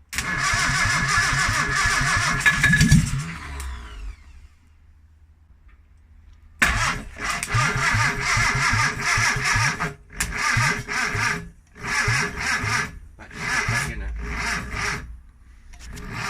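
1958 Morris Minor's freshly rebuilt 948cc A-series four-cylinder engine being cranked for its first start. A long crank of about four seconds has a brief louder surge near its end and dies away. After a short pause come several shorter cranking bursts, each about a second long, with brief gaps between them.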